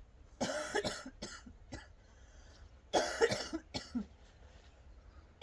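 A woman with a cold coughing in two fits, the first starting about half a second in and the second about three seconds in, each a few short harsh coughs.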